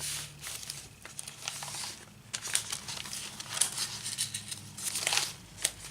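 Paper rustling and crinkling in irregular bursts as the pages, fold-outs and tucked-in papers of a handmade paper journal are handled and turned.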